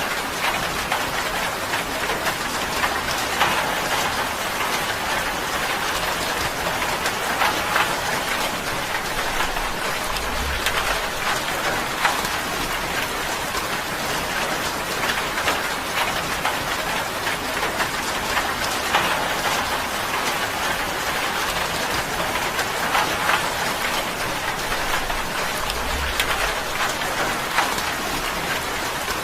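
Steady rain on a tin roof: a dense patter of drops with frequent sharper pings on the metal. A faint low rumble comes twice, about ten seconds in and again near the end.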